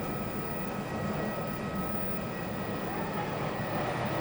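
Steady whine and rumble of a taxiing airliner's jet engines, holding two thin constant tones, with faint voices over it.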